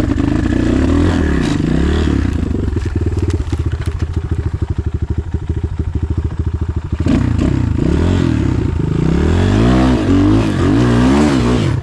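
Enduro dirt-bike engine revving up and down close by, the bike stalled in place on a steep climb as the rider tries to power it up. The revs climb higher from about seven seconds in, and the sound cuts off suddenly at the end.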